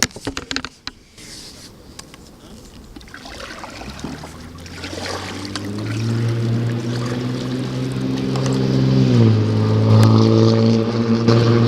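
A motor engine humming as it draws nearer and louder over several seconds; its pitch drops about nine seconds in as it passes, after a few knocks in the first second.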